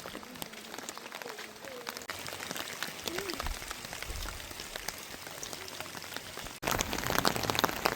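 Rain falling: a dense, steady patter of drops hitting a surface, which suddenly becomes louder near the end.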